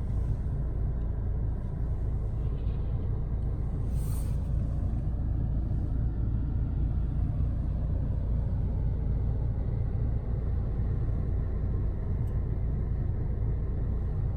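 Steady low rumble of a 2019 Mercedes A-Class driving on a snow-covered road, mostly tyre and road noise, heard inside the cabin. A brief hiss comes about four seconds in.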